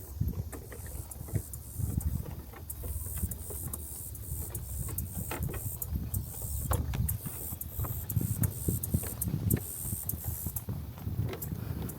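Wind buffeting the camera microphone with an uneven low rumble, over the scattered crunch and tap of footsteps on a trail.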